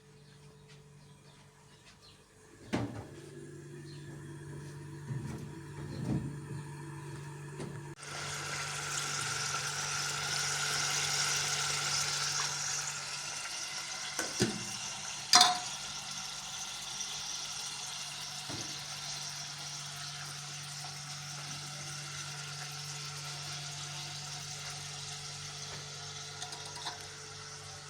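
Water running steadily, starting about eight seconds in, with a few sharp knocks and clinks of pots or dishes along the way.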